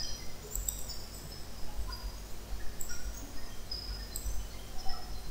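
Faint, scattered short high chirps of birds over a steady low hum.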